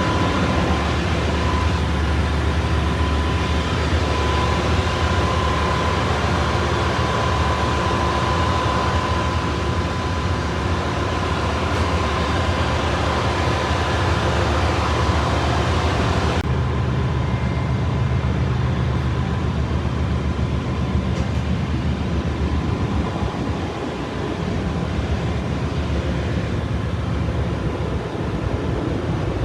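Ship's engine-room machinery running: a loud, constant drone with a steady high whine over it. About halfway through, the hiss above drops away abruptly and the noise turns duller.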